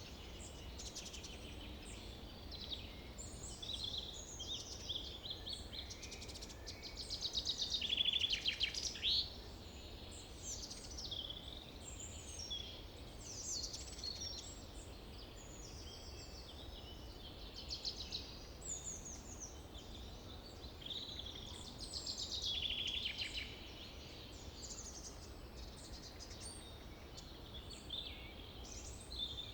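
Several small songbirds chirping and calling over one another, with louder, rapid trilled notes about eight seconds in and again a little past twenty seconds. A steady low rumble runs underneath.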